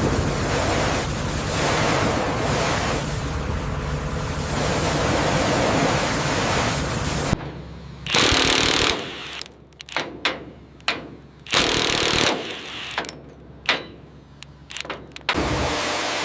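Construction power-tool noise: a continuous rushing din for the first several seconds, then a run of short, loud bursts broken by brief pauses.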